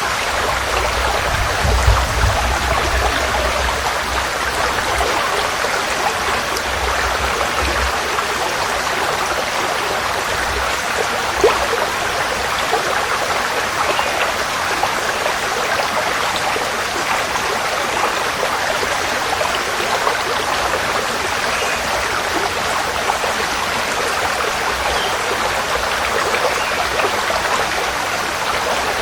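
Forest stream flowing, a steady rush of water with small splashes, and a low rumble under it for the first several seconds.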